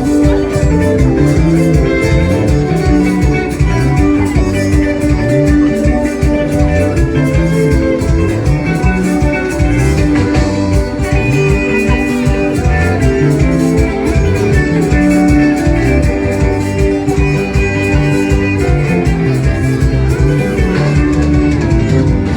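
Band music with a steady beat and sustained melodic notes, played without a break.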